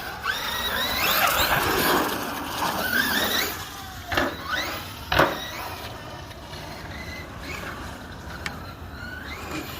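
Electric motor of a 1/7-scale RC monster truck whining up and down in pitch as it is driven hard, then two sharp knocks about four and five seconds in, followed by quieter running.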